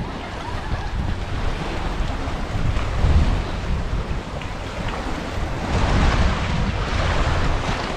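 Wind buffeting the microphone in gusts, with sea waves washing on the shore; a louder wash swells up over the last couple of seconds.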